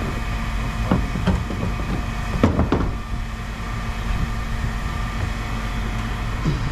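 Heavy machinery running steadily in a scrap yard, with a few sharp metallic clanks about a second in and again near the middle, typical of scrap parts being tossed onto a pile.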